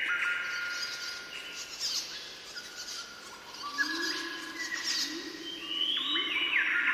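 Birdsong: overlapping whistled notes, many held steadily before stepping up or down in pitch.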